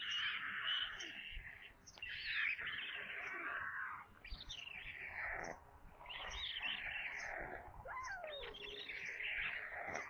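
Birds chirping and calling in a dense, busy run of high chirps and short gliding notes, broken by brief lulls about two, four and five and a half seconds in.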